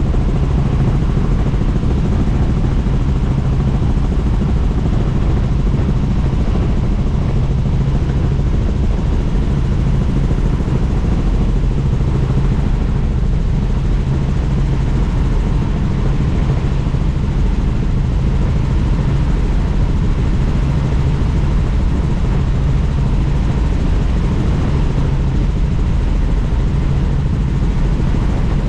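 Helicopter in flight heard from on board: steady, loud rotor and engine noise with no change in pitch or level.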